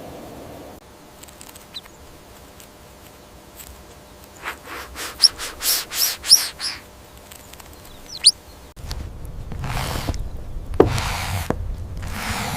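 A bird chirping: a quick run of short, high chirps about four to seven seconds in, and one more a little later. Then a rustling, scuffling noise with a few knocks.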